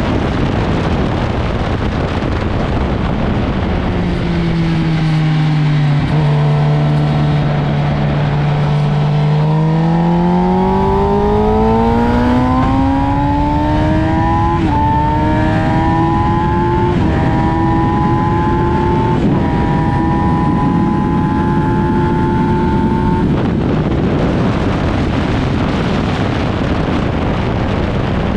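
Motorcycle engine on track under heavy wind rush: the engine note falls a few seconds in, holds low for a few seconds, then climbs steadily under acceleration with three short breaks like gear changes, before sinking back under the wind near the end.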